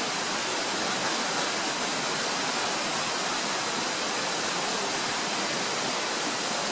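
Steady, even rushing noise that holds at one level without breaks.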